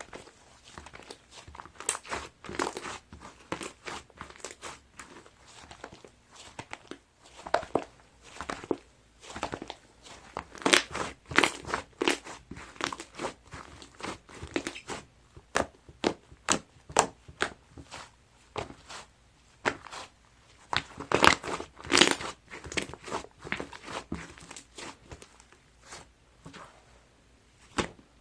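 Crunchy sherbet-textured slime mixed with clay and snow powder being squeezed and pressed by hand, giving a dense, irregular run of crackling pops and crunches with a few louder clusters.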